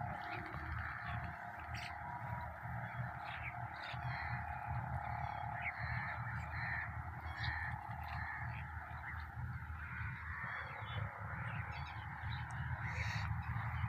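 A mixed flock of birds calling: many short honking and squawking calls, one after another, over a steady low background rumble.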